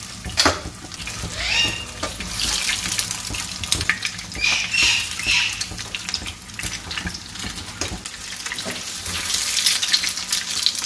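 Egg-coated frozen shami tikkis frying in very hot oil in a flat iron pan, a steady sizzle with crackling and spitting as more patties are laid in. Short high chirps come through twice, about a second and a half in and again around five seconds.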